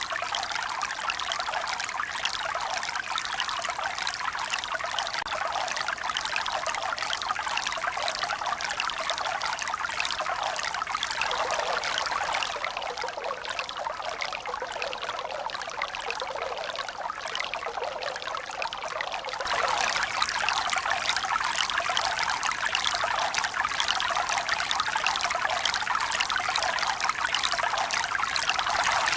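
Steady running water, a dense trickling rush with no rise and fall of breaking waves. It turns a little quieter and duller from about twelve seconds in, then jumps abruptly back to full level about two-thirds of the way through.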